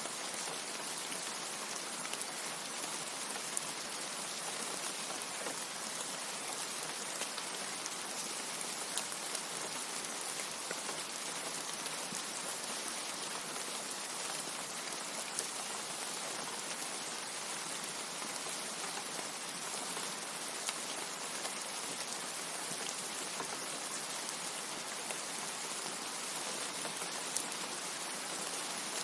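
Steady rain: an even hiss with scattered sharp ticks of single drops every few seconds.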